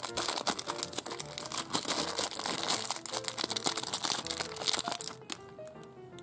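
Small clear plastic zip-lock bag crinkling as fingers work a toy figure out of it; the crinkling stops about five seconds in.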